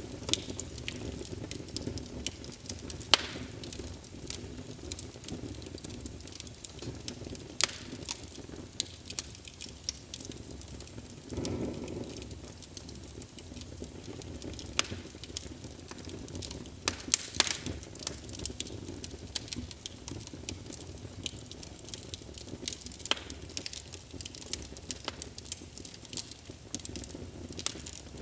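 Wood fire crackling in a fireplace: a steady low rush of burning with irregular sharp pops and snaps throughout, and a brief louder swell of the flames a little before halfway.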